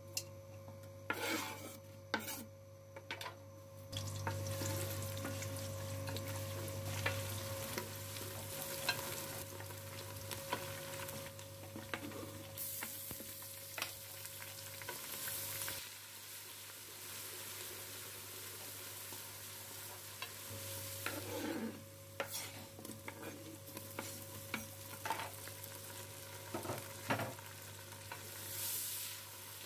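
Sliced onions frying in hot oil in a steel pot, sizzling steadily while a wooden spoon stirs and scrapes them, with scattered knocks of spoon and board against the pot. There are a few sharper knocks in the first seconds as the onions are tipped in off a wooden cutting board.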